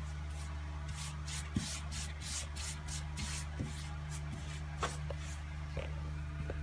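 A brush painting sealant onto sheet-metal ductwork: a quick run of short scratchy strokes, about three or four a second, with a few light knocks against the duct. A steady low hum runs underneath.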